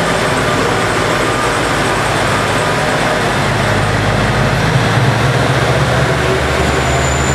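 Cummins diesel engines of JR Central KiHa 40-series railcars running hard as the train accelerates away from a stop: a loud, steady diesel drone whose low note shifts about five seconds in.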